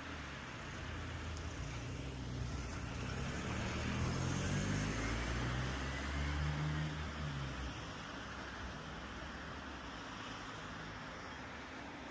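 An engine running, growing louder through the middle and fading away about seven to eight seconds in, leaving a steady background hiss.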